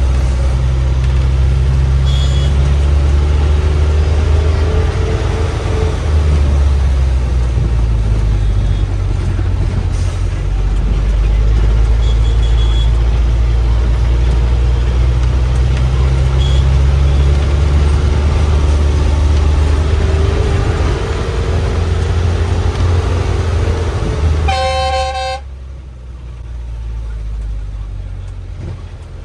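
Bus engine running under load with a heavy low drone, its revs rising and falling. A vehicle horn blasts once near the end, and then the engine noise drops away to a quieter level.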